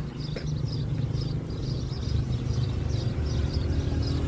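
Songbirds chirping in a steady run of short high notes, about two or three a second, over a steady low rumble.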